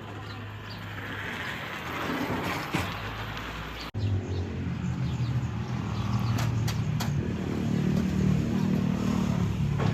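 Street traffic: a vehicle passing, then a motor vehicle's engine running close by with a steady low hum after a brief dropout about four seconds in.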